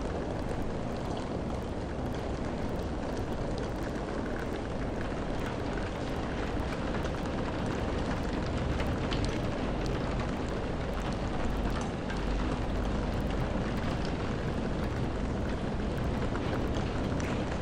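Steady rain: a dense, even hiss with a low rumble underneath and scattered sharp ticks of drops hitting.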